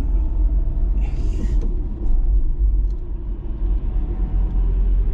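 Car driving with a steady low road and engine rumble. A brief creak or rattle comes about a second in.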